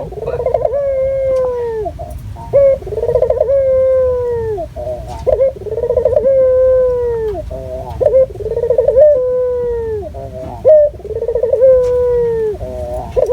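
A puter (collared dove) cooing over and over. Each call is a quick rolling stutter that runs into a long, slowly falling coo, repeated about every two and a half seconds, five times.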